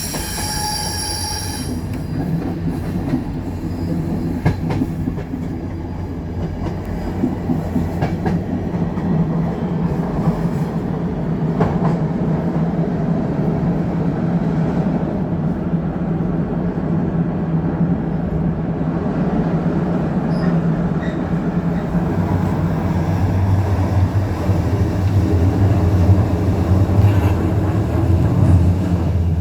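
Passenger train running on the rails: a steady low rumble of wheels and car with a few sharp clicks, and a high whining tone in the first two seconds.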